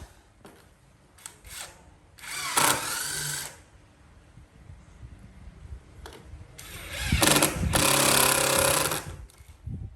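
A handheld power tool working wood, run in two short bursts: one of about a second just over two seconds in, and a longer one of about two seconds past the middle.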